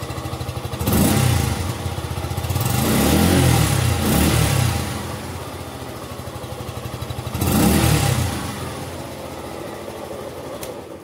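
Suzuki Gixxer SF 150's 155 cc single-cylinder engine idling through its stock exhaust, blipped three times: a short rev about a second in, a longer rev and fall around three to four seconds in, and another short rev near eight seconds. It falls quiet right at the end as the engine is switched off.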